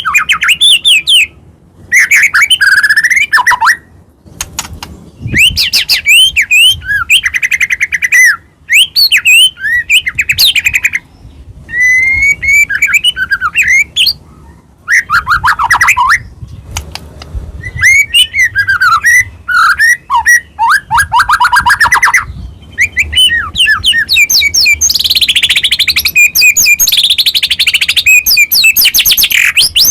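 White-rumped shama (murai batu) singing loud phrases of rapid sweeping whistles, trills and chattering notes, each phrase a second or two long with short pauses between. Near the end comes a longer, denser run of high chattering notes.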